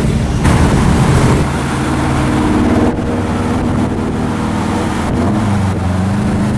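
Car engine and exhaust running with a steady low drone, rising slightly in pitch a little after five seconds.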